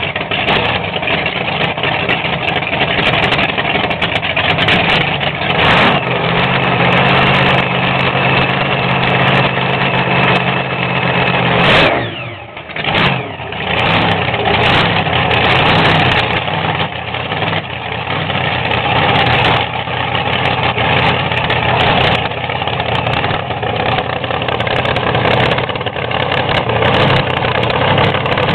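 Alcohol-burning nostalgia funny car engine running at a loud, rough cackling idle just after start-up. About twelve seconds in the engine speed surges and drops away in a quick throttle blip, then settles back to the lumpy idle.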